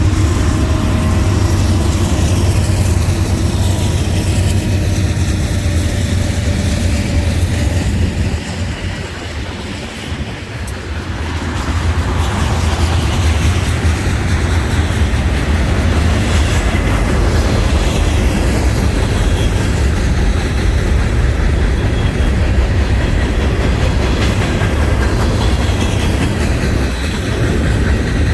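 Train cars rolling past, steel wheels on rail giving a steady low rumble and clatter, easing briefly about a third of the way in before building again.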